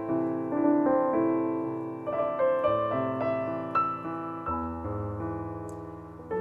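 Electric keyboard with a piano sound playing a slow introduction to a nigun: a melody of single notes over held chords, with the bass note changing about two-thirds of the way through.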